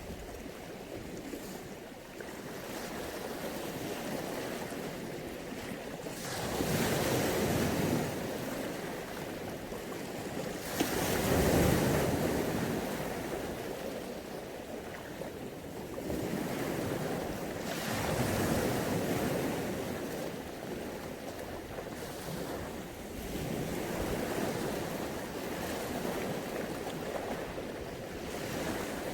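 Mediterranean Sea waves washing in, a steady rush that swells into louder surges every several seconds, the biggest about eleven seconds in.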